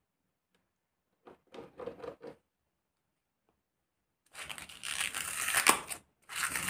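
Adhesive tape pulled off a roll with a loud ripping sound lasting nearly two seconds, starting about four seconds in, after a few faint rustles of handling.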